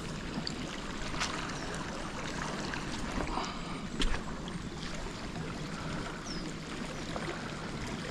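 Steady rush of water flowing at a dam, with a few sharp clicks over it, the loudest about four seconds in.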